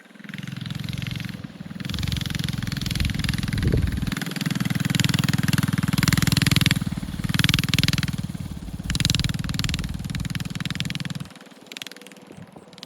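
A mini bike's Predator 212 single-cylinder four-stroke engine running hard under throttle, rising and easing as the rider works through the course, with a brief rev about four seconds in. The engine sound falls away sharply about eleven seconds in.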